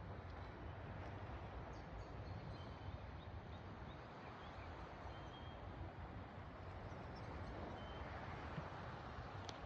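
A steady low rumble and hiss, with a few short, high bird chirps scattered through it.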